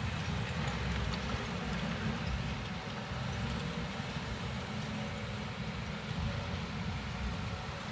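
Heavy diesel earthmoving machinery running steadily, a deep engine rumble.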